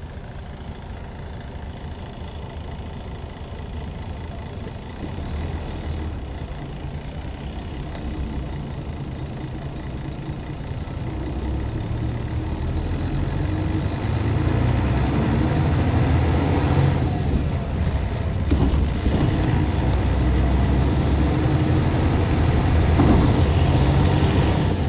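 Hyundai D6CC Powertec 380 inline-six diesel of a Hyundai Universe coach running under load, its low drone growing steadily louder as the bus picks up speed, with a short break about two-thirds of the way through.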